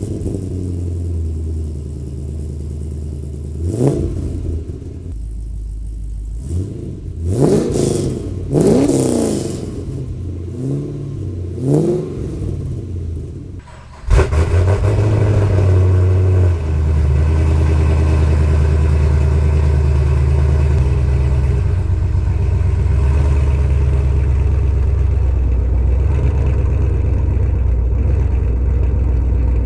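Chevrolet Camaro engine breathing through an XS Power full exhaust (headers back, with mufflers), pretty loud. It idles with several quick throttle revs in the first half. From about halfway it runs louder and steady.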